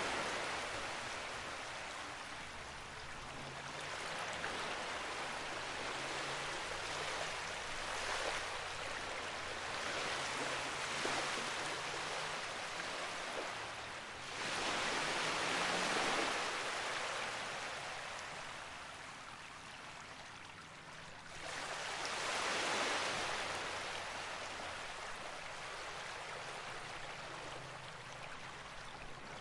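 Rushing stream water, a steady hiss that swells and fades every several seconds.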